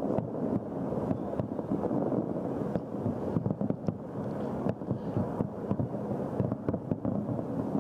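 Large fireworks display: many shell bursts in quick succession merging into a continuous rumble, with sharper individual bangs standing out throughout.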